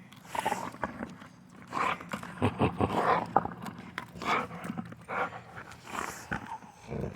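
A dog growling while tugging at and chewing a small stick, with irregular clicks and cracks of the wood in its teeth.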